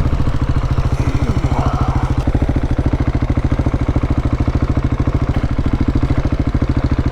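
KTM 690 Enduro's single-cylinder engine running steadily at low revs, an even, rapid pulse of firing strokes.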